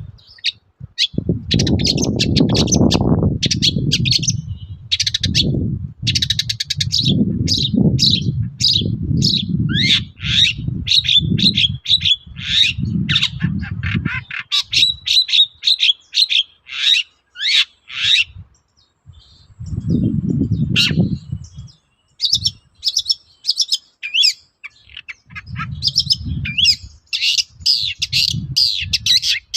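Long-tailed shrike (cendet) singing: fast runs of short, high chattering notes. The song breaks off for a few seconds after the middle and starts again near the end, with a low rumble under it in stretches.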